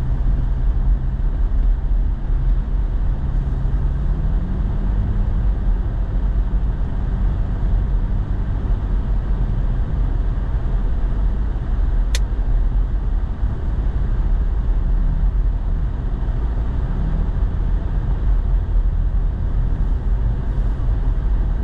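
Inside a pickup truck's cab while driving: the engine running under a steady low road rumble, its note rising about four seconds in. A single sharp click about halfway through.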